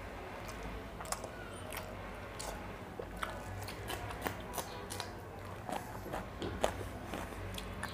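Close-miked chewing and mouth sounds of a man eating fried sunny-side-up eggs by hand, with irregular short clicks.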